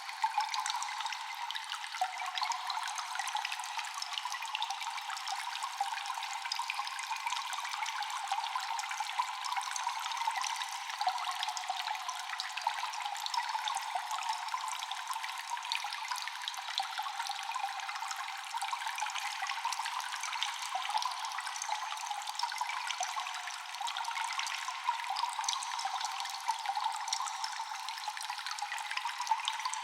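Cave ambience of water dripping and trickling without pause, many small drops falling in quick succession and echoing. The sound is thin and bright, with no low rumble.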